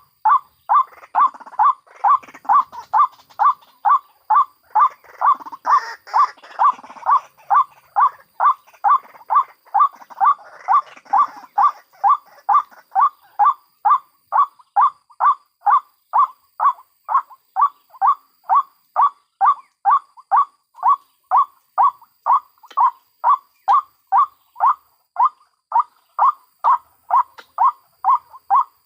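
White-breasted waterhen calling in a steady, rhythmic series of short notes, about two a second, with softer overlapping calls from other waterhens in the first half.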